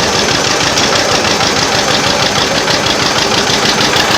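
Tractor engine running steadily at close range, with an even firing beat.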